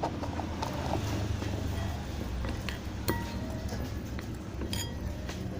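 A few light clinks of a spoon against a dish, over a low steady hum.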